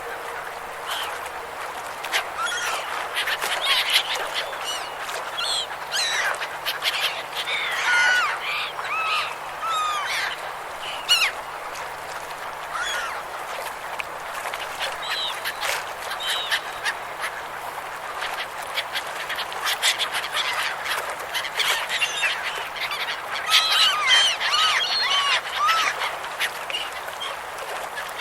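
A flock of gulls calling, many short squawking calls overlapping, bunched into busier stretches near the start and again near the end, over a steady rushing background.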